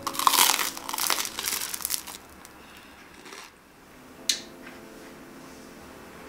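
Crunching of crisp toasted baguette being bitten and chewed: a dense run of crackly crunches lasting about two seconds. A single sharp click follows about four seconds in.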